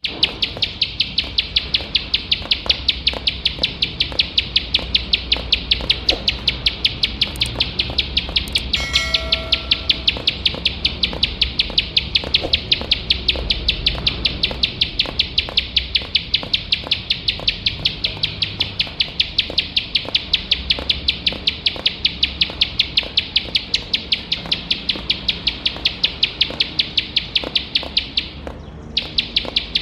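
Ciblek sawah, a small prinia, singing a rapid, machine-gun-like run of sharp ticking notes with almost no break, pausing briefly near the end. About a third of the way in, a short whistled note stands out over the ticking.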